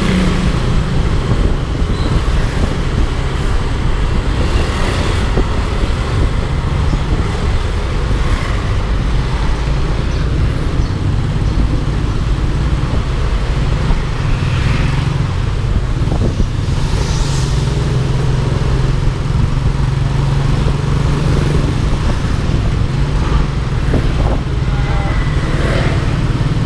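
Yamaha Aerox 155 scooter's single-cylinder engine running steadily while riding, under a steady low rumble of road and wind noise, with surrounding traffic.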